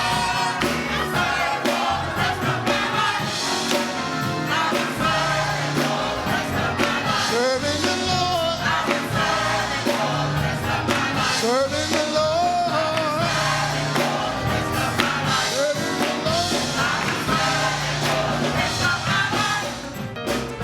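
Gospel music: a choir singing with instrumental accompaniment, the voices sliding between notes over a steady bass line and beat.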